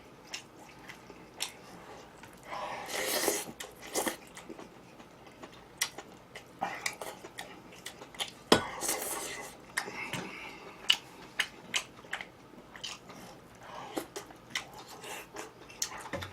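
Close-miked eating: chewing with sharp crunchy bites and a couple of louder crunching spells, mixed with small clicks of cutlery against dishes.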